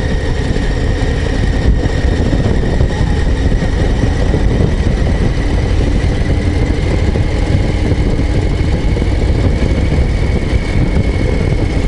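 Harley-Davidson Low Rider ST's Milwaukee-Eight 117 V-twin running steadily as the motorcycle is ridden along, with no big revs or gear changes.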